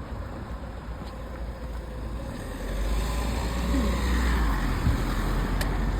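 A motor vehicle driving past close by: a steady rumble of road noise that swells about two and a half seconds in and stays loud.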